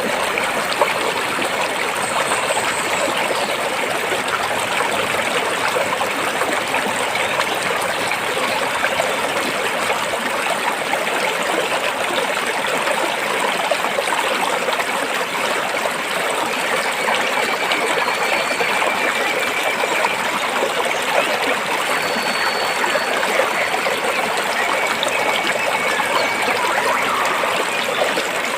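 A rocky stream running steadily, water trickling and splashing between the rocks.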